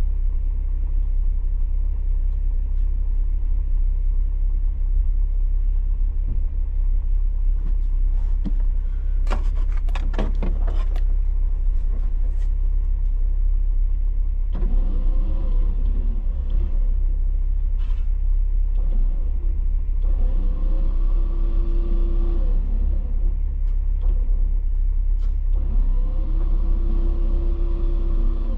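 Heavy, steady vehicle rumble. A burst of sharp rattles comes about ten seconds in. Later an engine revs up and eases back down three times.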